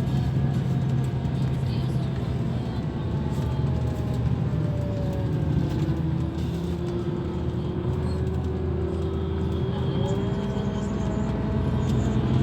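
Scania K340 bus engine running, a steady low hum with a fainter whine that slowly slides in pitch.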